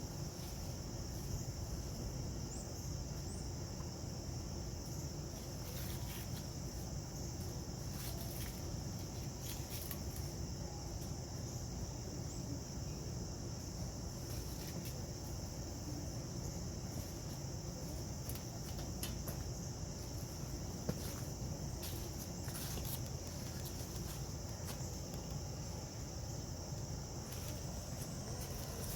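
Steady, high-pitched insect chorus, with a low background rumble and scattered light clicks.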